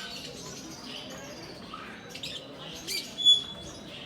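Many small cage birds chirping and calling at once, with one louder, sharp call about three seconds in, followed by a brief steady whistled note.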